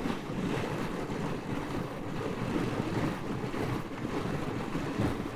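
Steady wind rush and road noise from a moving motorcycle, heard through a helmet-mounted microphone.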